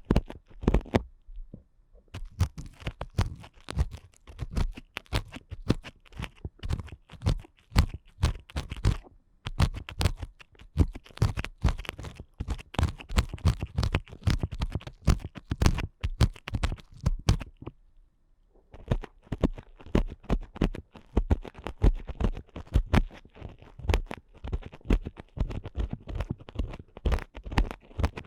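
Earpicks scratching and scraping rapidly and firmly inside a microphone's ear, close-up, for ear-cleaning ASMR. The scratching strokes come densely, with short pauses about a second in and about two-thirds of the way through.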